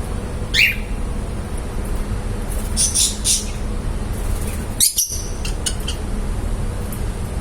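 Small pet parrots chirping in short bursts. There is a quick falling call about half a second in, a cluster of high chirps around three seconds, and more sharp chirps near five seconds, over a steady low background rumble.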